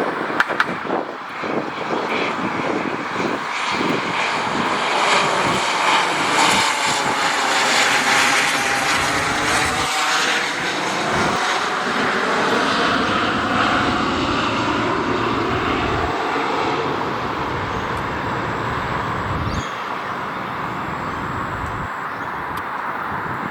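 Pilatus PC-24's twin Williams FJ44 turbofan engines as the jet flies past on final approach: a steady jet rush and whine with a sweeping, phasing tone, loudest around the middle and slowly easing off toward the end.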